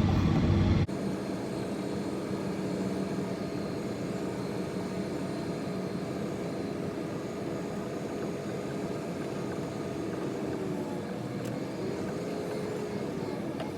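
Snowplow vehicle's engine running steadily with a droning hum, with a few slow rises and falls in pitch near the end.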